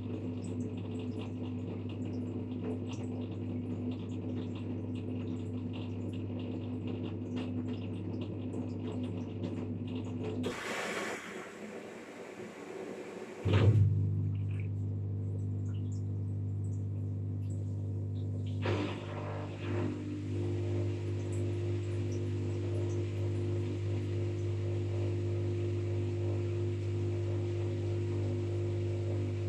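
LG washing machine running with a steady electrical hum. About ten seconds in, the hum stops for a few seconds of hiss. It comes back with a loud click, and later a second, higher hum joins it.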